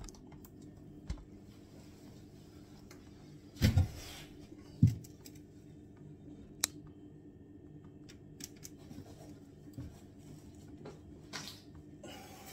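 Two dull knocks about a second apart, then a sharp click and a few faint taps, from tools and hands working at the plumbing under a kitchen sink.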